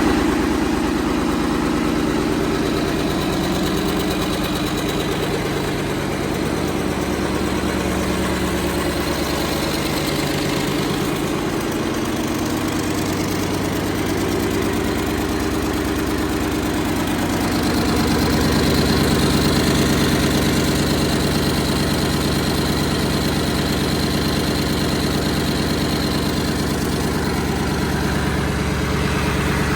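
Mercedes-Benz OM442 V8 diesel engine running steadily at a low speed, its note shifting and getting slightly louder about two-thirds of the way through.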